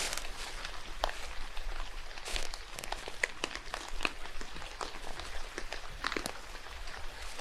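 Rain falling steadily in a forest, a continuous hiss with irregular sharp drips and crackles over it.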